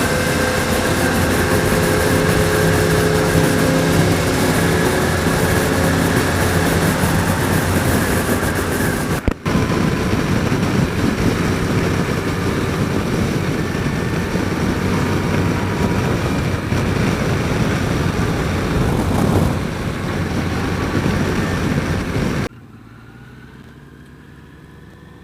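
Yamaha FJR1300 inline-four motorcycle engine and wind noise while riding, picked up by a helmet mic. It breaks off briefly about nine seconds in, and near the end drops suddenly to a much quieter level.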